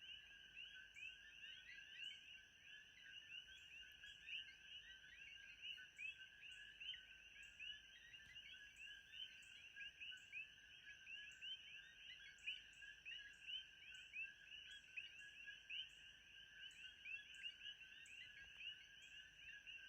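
Faint, dense chorus of many small animals calling, a continuous mass of short overlapping chirps with no pause, over a thin steady high tone.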